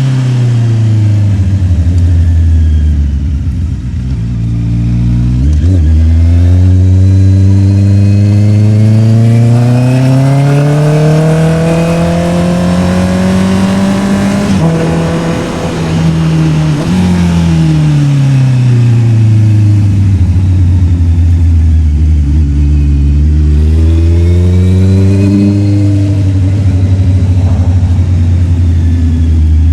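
Honda CB650R's inline-four engine under riding, revs falling off over the first few seconds, then climbing and dropping again as the bike pulls through the gears and slows, with a quick break in pitch at a gear change about five seconds in. It settles to a steady pitch near the end.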